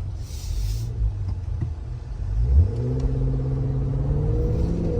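Cadillac Escalade-V's supercharged 6.2-litre V8 running with a low rumble, then revving up about two and a half seconds in as the SUV accelerates, its exhaust note rising and holding higher.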